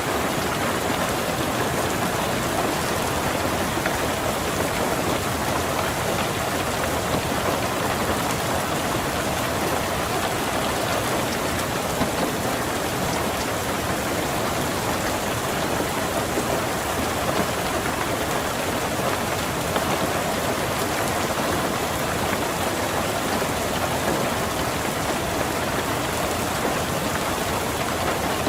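Steady rain falling on a car during a rainstorm, a dense, even patter that stays at one level throughout, with no thunder.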